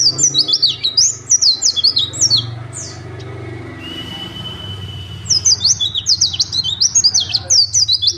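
A pleci (white-eye) singing in fast, loud bursts of high sweeping notes. The bursts pause about three seconds in, where a thin steady whistle is held, and resume about five seconds in.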